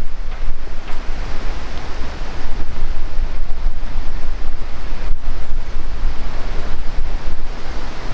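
Strong wind buffeting the microphone: a loud, steady rumble without pause.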